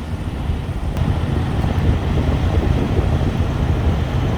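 Steady low rumble of idling trucks, with wind buffeting the microphone.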